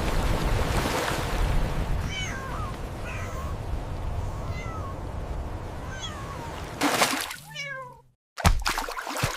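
Rushing water with thin, high kitten meows heard three or four times over it. Near the end comes a burst of loud noise, then a louder, longer meow, a sudden brief dropout and another loud burst.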